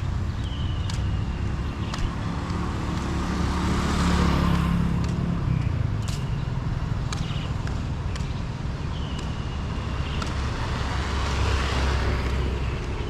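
Street traffic: a steady engine rumble, with two vehicles passing close by, one about four seconds in and another near the end. Short clicks and brief high chirps sound through it.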